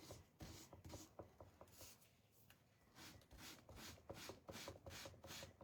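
Faint, rhythmic strokes of sandpaper rubbing over a painted wooden cutting board, about two to three strokes a second with a short pause partway through, sanding down bubbled and peeled paint.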